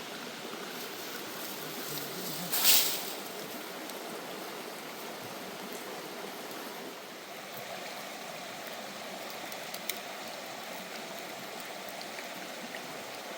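Steady rushing of flowing stream water. About two and a half seconds in there is a brief, much louder hissing rush, and a single small click comes near the end.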